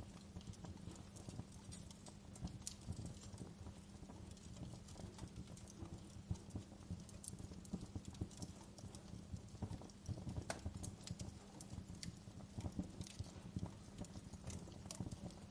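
Wood fire burning in a fireplace: a steady low rumble with irregular crackles and sharp pops, one stronger pop about ten and a half seconds in.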